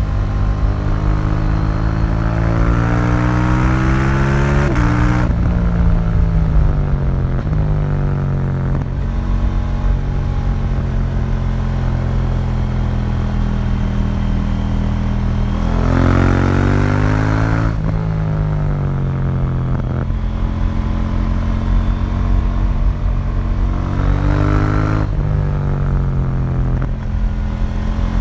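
A 2018 KTM 790 Duke's parallel-twin engine running through its stock exhaust while riding. The engine note climbs for about five seconds and then drops sharply, sinks away and holds steady. It rises again twice more, each time falling back, as the bike speeds up and rolls off.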